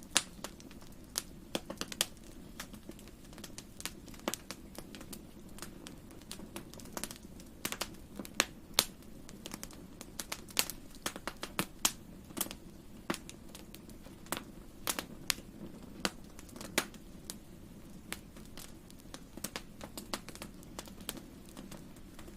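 Wood fire crackling in a fireplace: irregular sharp pops and snaps, some louder than others, over a steady low rumble of the flames.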